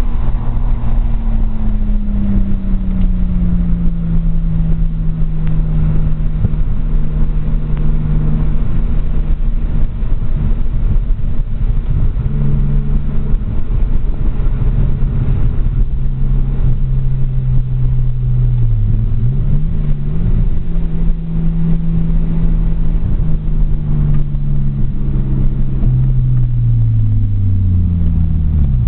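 Nissan RB20DET turbocharged inline-six in a 1992 240SX, heard from inside the cabin at track pace over steady road and wind noise. Its pitch slides down through long stretches and twice dips sharply and climbs back, about two-thirds of the way in and near the end.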